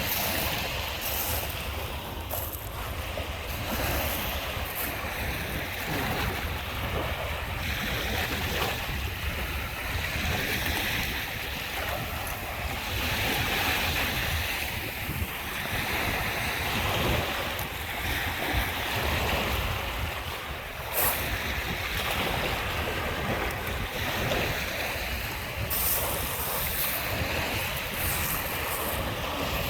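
Lake Michigan waves washing onto the shore in a continuous surf that swells and ebbs every few seconds, with wind rumbling on the microphone.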